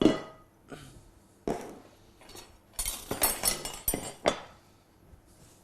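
Crockery and serving utensils clinking and knocking together as dishes are handled: a few separate knocks, with a quick run of clinks a little past the middle.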